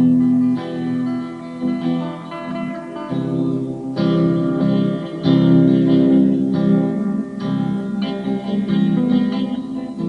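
Acoustic guitar music: plucked and strummed chords with notes ringing on, at a steady pace.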